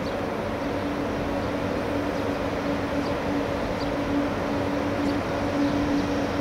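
Train running with a steady hum over an even rumble, with a few faint, short high chirps.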